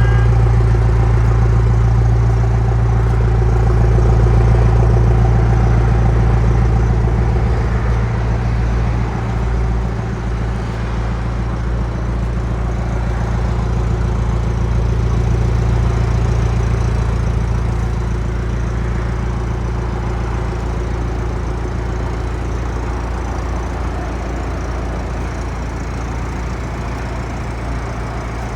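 A car engine running with a steady low rumble, easing off slightly about eight seconds in.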